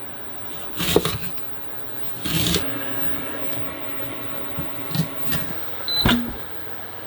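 A few scattered knocks and clatters of kitchen utensils being handled while cooking, over a low steady hum.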